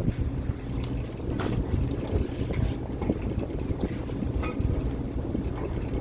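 Fishing boat's engine running steadily, with scattered short knocks and clicks over the low rumble.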